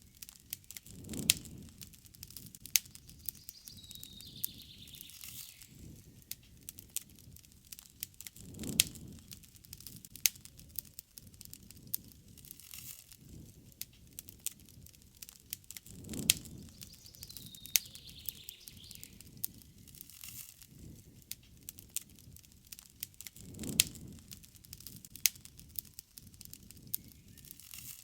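Campfire wood crackling with frequent sharp pops and snaps. A bird's falling high call comes twice, a few seconds in and again just past halfway, and a soft low rush swells about every seven and a half seconds.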